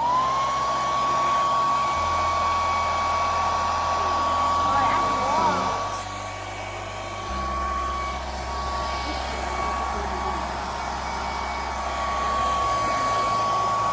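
Hand-held hair dryer running: its motor whine climbs to pitch just as it switches on, then holds steady over the rush of air. It gets a little quieter about six seconds in.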